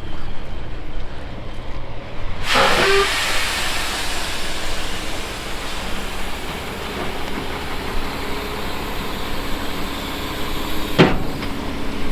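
Vehicle engine running with a low rumble. About two seconds in, a loud steady hiss starts and carries on, and a sharp click comes near the end.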